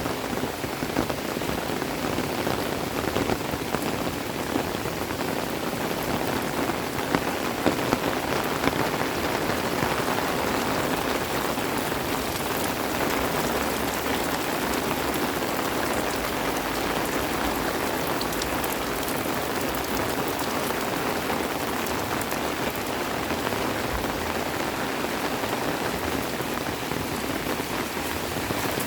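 Steady rain falling, with many individual drops striking close by as small sharp ticks over an even hiss.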